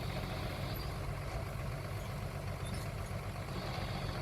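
Diesel engine of a small earthmoving machine running steadily at low revs, a constant low hum.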